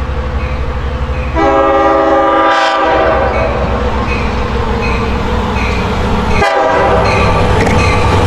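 Long Island Rail Road electric multiple-unit commuter train running past with a steady rhythmic wheel rumble. Its multi-note horn sounds a chord for about a second and a half, starting about a second and a half in, and sounds again briefly about six and a half seconds in.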